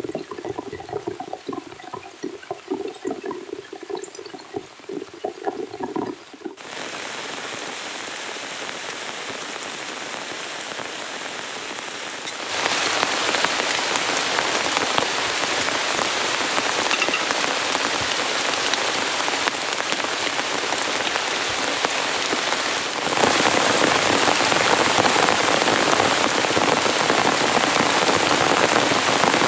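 Heavy rain falling in a steady hiss, getting louder in sudden steps twice, about halfway and again near the end. Before the rain comes in, some six seconds of an uneven sound with a few pitched tones.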